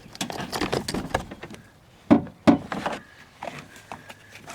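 A car door panel being worked loose by hand: a run of clicks and rattles, then two sharp knocks about half a second apart, followed by a few lighter ticks.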